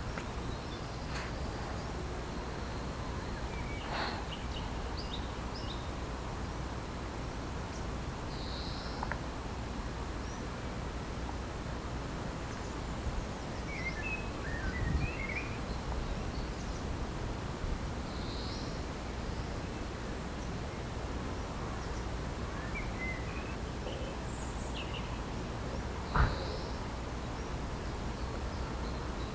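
Countryside garden ambience: scattered short bird calls and chirps over a steady low background noise, with one sharp click near the end.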